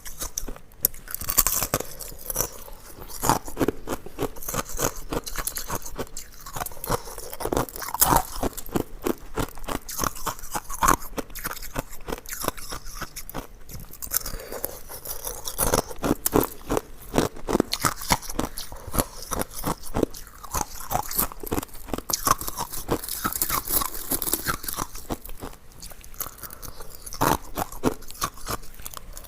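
Hard ice being bitten and chewed: a continuous run of crisp, irregular crunches.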